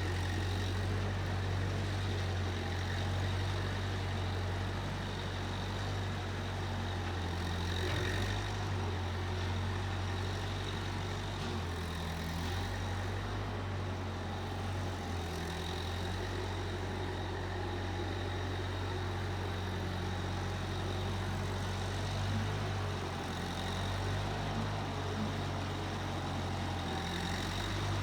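Case 1530 Uni-Loader skid steer's engine running steadily with a low, even hum.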